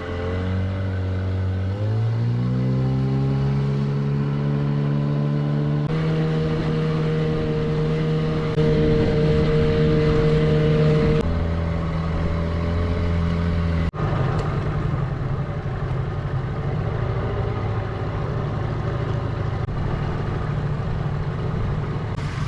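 Dinghy outboard motor running under way. It speeds up with a rising pitch about two seconds in, then holds steady, with a few sudden changes in pitch.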